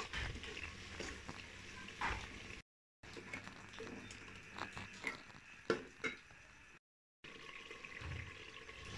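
Faint bubbling and sizzling of an onion-tomato masala frying in oil in a metal pot, with a few short clicks and scrapes from a stirring spoon. The sound drops out briefly twice.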